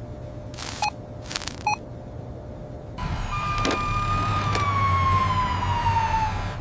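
An emergency vehicle's siren comes in about three seconds in as one long tone that slowly falls in pitch, over a low engine rumble. Before it there are two short bursts of noise.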